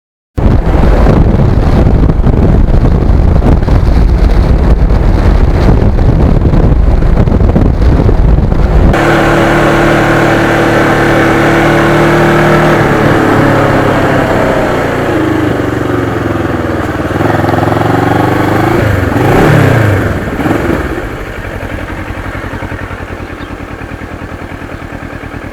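Kawasaki Ninja motorcycle being ridden. Loud wind rush over the engine at speed cuts in suddenly, then about 9 seconds in the engine note comes through clearly as the bike slows, its pitch falling and rising with the gear changes. Near the end it settles into a quieter steady running.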